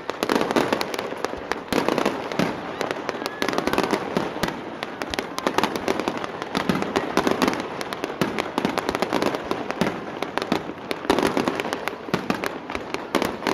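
Fireworks display: many bangs and crackling bursts in rapid, overlapping succession throughout.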